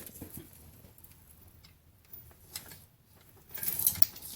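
Sockets and hand tools being handled: scattered light clicks and clinks, with a brief busier rattle near the end.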